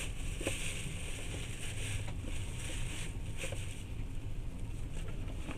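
Passenger train running, heard inside the carriage: a steady low rumble from the wheels and running gear, with a hiss over it that eases after about three and a half seconds and a few faint knocks.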